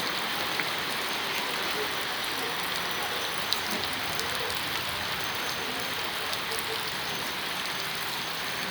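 Steady rain falling, an even hiss with scattered ticks of individual drops, one sharper tick about three and a half seconds in.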